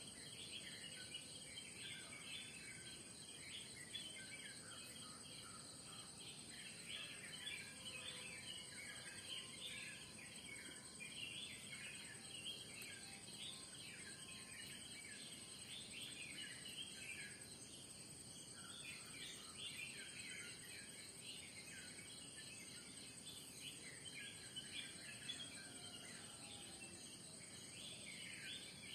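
Morning chorus of many birds chirping and calling at once, over a steady high-pitched insect drone.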